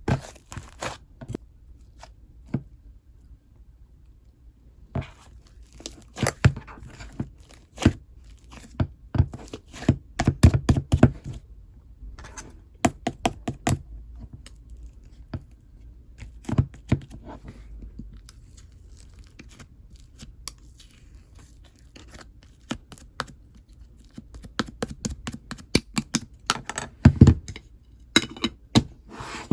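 Fluffy, soft slime being squished, pressed and stretched by hand: irregular sticky pops and crackles, coming in busy clusters with quieter gaps between.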